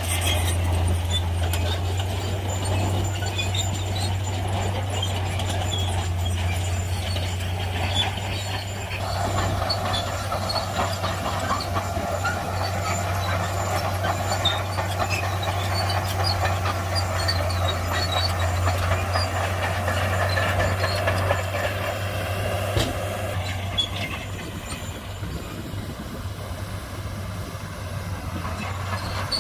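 Shantui crawler bulldozer at work: its diesel engine runs with a steady low drone, with scattered high squeaks and clinks. The engine works harder from about nine seconds in and eases off shortly before the end.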